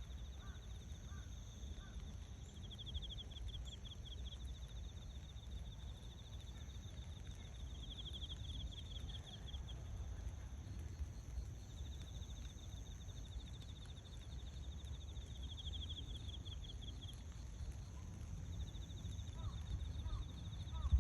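Insects trilling: high, fast-pulsing bouts a second or two long that come back every few seconds, over a steady high insect drone and a low outdoor rumble. A few short chirps come near the end.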